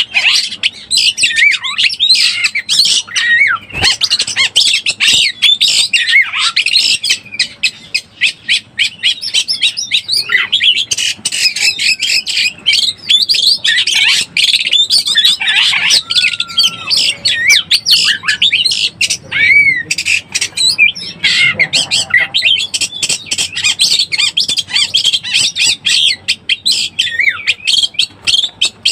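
Oriental magpie-robin (kacer) singing a fast, unbroken stream of rough chattering notes mixed with whistled slurs: the excited song of a bird in breeding condition.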